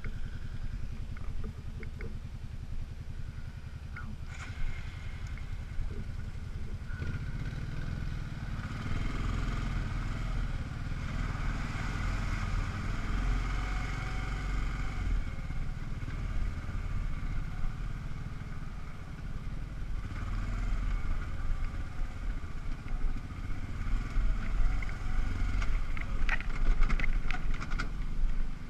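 ATV (four-wheeler) engine running as it is ridden along a rutted dirt trail, growing louder about seven seconds in. A few knocks and rattles from the machine come near the end.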